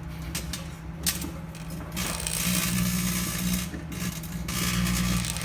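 Microwave oven running with its steady low transformer hum, while a light bulb inside crackles and hisses in bursts that start and stop suddenly.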